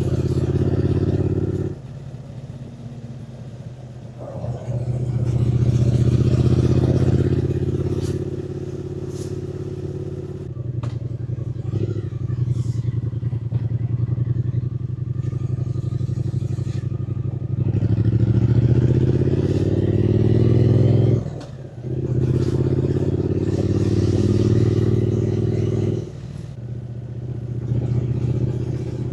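Triumph Speed Twin 900's parallel-twin engine under way, the throttle opened and eased off again and again. Loud pulls alternate with quieter stretches off the throttle, and the longest pull, about two-thirds of the way through, rises steadily in pitch and then drops suddenly.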